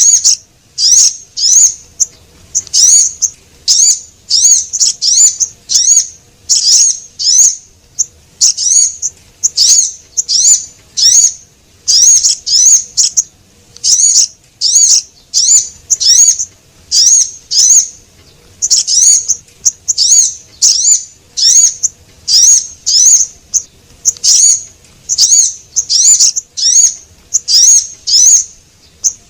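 Recorded lure call of the small songbird called sogon: short, high-pitched chirps in quick clusters of two to four, several a second, repeating without pause, as played to attract small birds.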